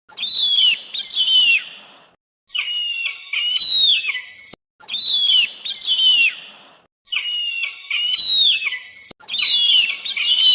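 An eagle calling: series of high, shrill whistled notes, each falling sharply in pitch, in phrases about two seconds long that repeat about five times with short gaps, the same call sequence coming round again.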